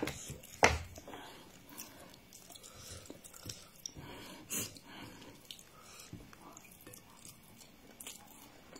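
A person chewing a mouthful of rice, with soft wet mouth clicks and lip smacks. A couple of sharper clicks come about a second in and again midway.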